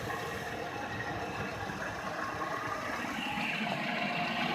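Nissan car engine idling steadily, just started after an oil pan, gasket and oil filter replacement and left running to check for leaks.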